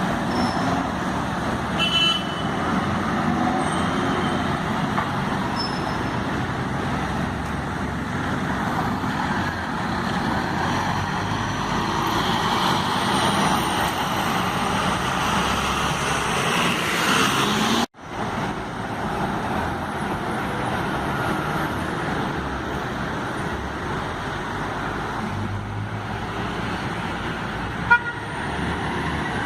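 Scania K270 city bus's diesel engine running as the bus moves in street traffic, with road and tyre noise. The sound breaks off briefly about 18 seconds in and resumes.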